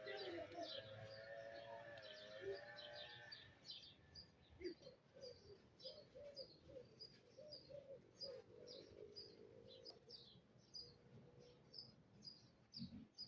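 Faint outdoor birdsong: a small bird repeats short, high chirps all through. A lower, drawn-out call sounds over the first three seconds or so, and a quick run of short, lower notes follows in the middle.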